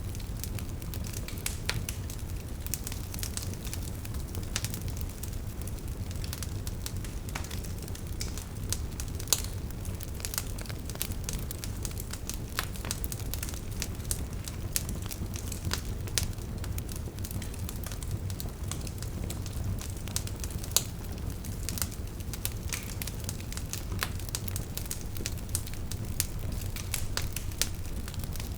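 Wood fire burning: a steady low rumble of flame with irregular crackles and sharp pops from the burning logs.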